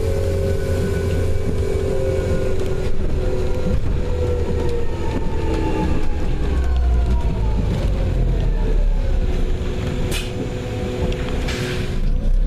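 A London bus's engine and drivetrain running while it travels, heard from on board: a steady low rumble with whining tones that fall in pitch as the bus slows. A click and a short hiss come near the end.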